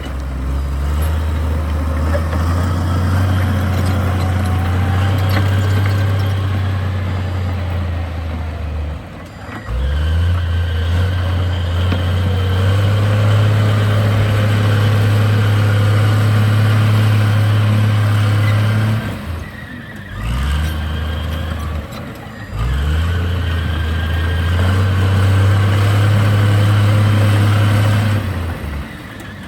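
Heavy diesel engine of earthmoving machinery running hard under load. It drops off briefly several times and revs back up each time.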